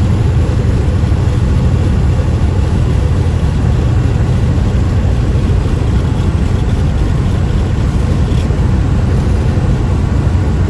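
Steady low drone of a semi-truck's engine and road noise heard from inside the cab while cruising on the freeway.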